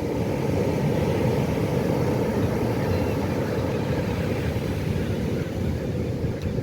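Pacific Ocean surf: a steady low rumble of breaking waves.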